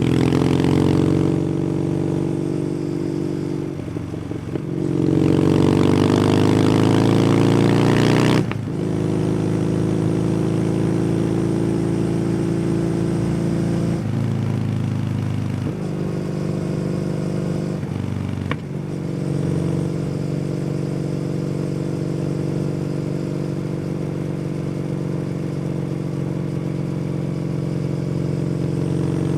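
Kawasaki W800's air-cooled parallel-twin engine running through an aftermarket SC Project exhaust while riding, pulling up in revs and dropping at a few gear changes in the first twenty seconds, then holding a steady cruise.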